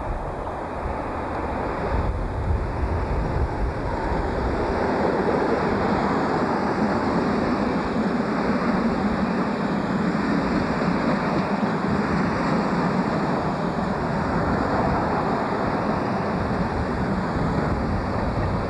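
Locomotive-hauled passenger train, a Class 31 diesel at its head, running into the platform: a deep rumble in the first few seconds as the locomotive passes, then a steady rolling noise of the coaches' wheels on the rails.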